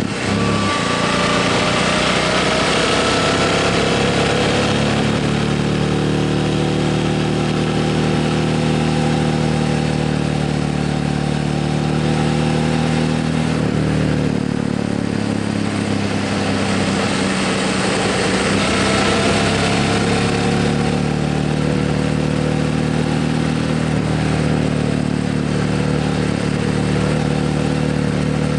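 Motorcycle engine running while riding, its pitch rising and falling several times with changes of speed, over a steady rush of wind noise.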